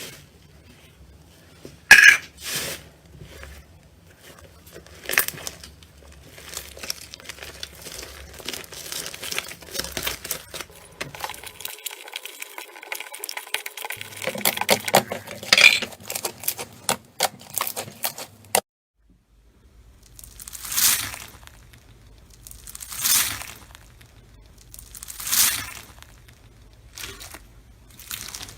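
Slime being worked by hand, crackling and popping with many small sharp clicks. After an abrupt cut, it is squeezed in slow squishes about every two seconds.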